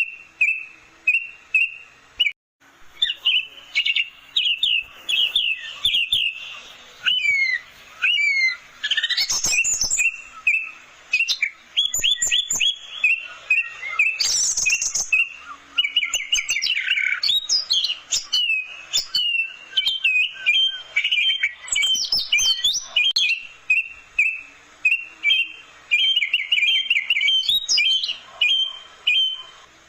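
Orange-headed thrush singing a long, varied song: fast runs of repeated whistled notes, chattering trills and quick sweeps up and down in pitch, with a brief break a couple of seconds in.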